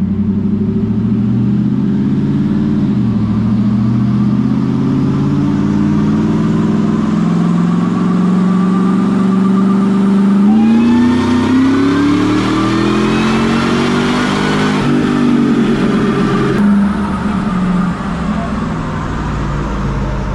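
2003 Ford Lightning's supercharged 5.4-litre V8 running on a chassis dyno: it runs steadily for about ten seconds, then goes to full throttle with a supercharger whine rising in pitch with the revs. Around sixteen seconds in the throttle is released, the whine cuts off and the engine winds down.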